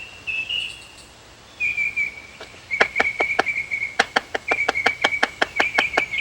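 Crickets chirping in a steady high trill, joined about two and a half seconds in by a quick run of sharp clicks, about five a second.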